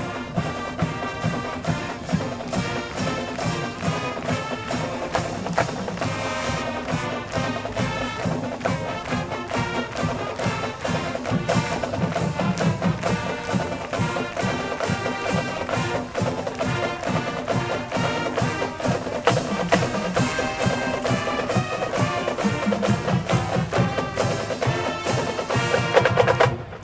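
Marching band playing: brass and winds over a drumline keeping a fast, steady beat, cutting off sharply at the end.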